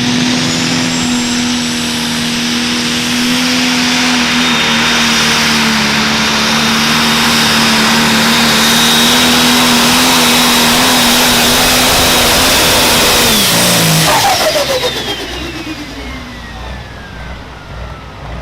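Turbocharged pro stock pulling tractor's diesel engine held at full throttle, with a steady high turbo whine. About 14 seconds in the engine shuts off, and the turbo whine winds down in a long falling glide.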